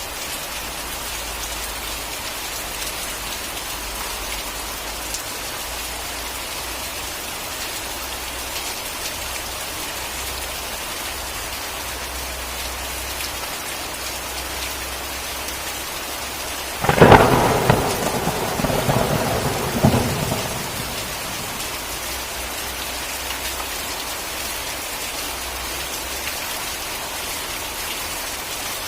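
Steady heavy rain, with a sudden loud thunderclap about two-thirds of the way through that crackles and rumbles for about three seconds, with a second crack near its end, before the rain alone continues.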